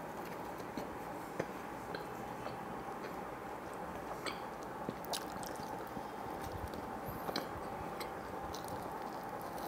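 Close-up chewing of a mouthful of pizza, with soft wet mouth sounds and a few short sharp clicks scattered through. Under it runs a faint steady hum.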